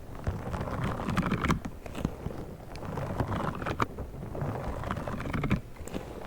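ASMR trigger sounds made with a pink star object close to the microphone: a continuous, irregular run of crackly clicks and rustles.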